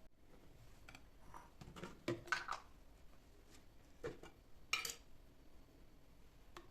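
Household items being handled and set down during cleaning: a few scattered light knocks and clinks, the loudest just after two seconds in and near five seconds.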